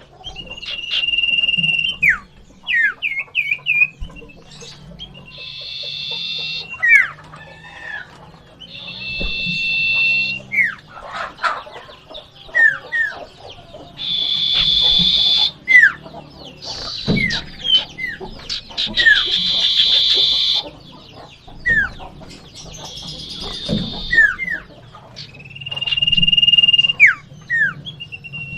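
Common ioras (cipoh) calling in a fighting exchange. Long held whistles and quick down-slurred whistled notes alternate with stretches of harsh, buzzy chatter, over and over.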